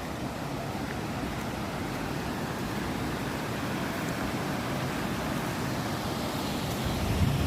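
Steady rushing of a waterfall's falling water that slowly grows louder, with low buffeting rumbles near the end.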